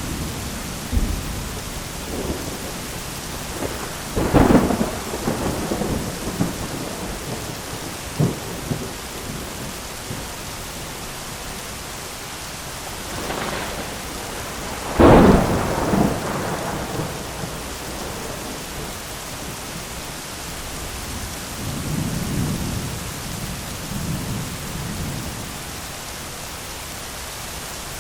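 Heavy rain falling steadily on an umbrella, with thunder: a sharp clap about four seconds in, a louder one about fifteen seconds in, and softer low rumbles near the end.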